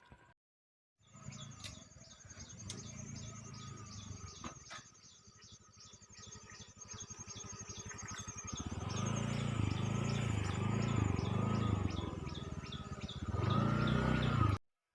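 Bird chirping in a fast, regular series of high notes, with a low pulsing sound underneath that grows louder over the second half.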